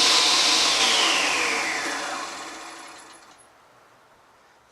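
Rockwell Beaver table saw, its motor and 7.5-inch blade coasting down after being switched off: a falling whine that fades away over about three seconds.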